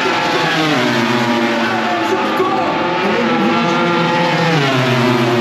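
MotoGP racing motorcycle engines running loud and steady, their pitch sliding down about four and a half seconds in.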